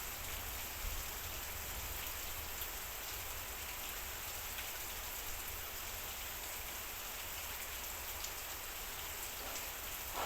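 Heavy rain falling steadily on a metal roof, a continuous even hiss with scattered faint drop ticks.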